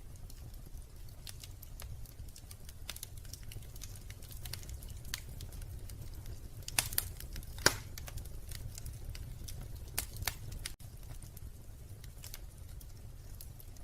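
Wood fire crackling in a fireplace: irregular sharp snaps and pops over a low steady rumble, with two louder pops about seven seconds in.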